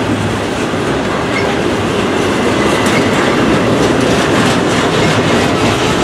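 A train rolling past close by, a loud steady rumble of cars with the wheels clicking over the rail joints.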